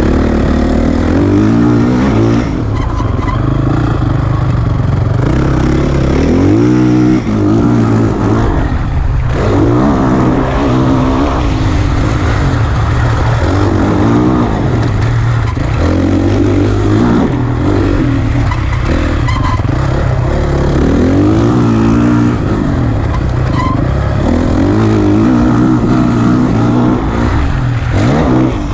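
Dirt bike engine ridden hard around a motocross track over jumps. The revs climb and fall again every few seconds as the throttle is opened and shut, with brief drops off the throttle.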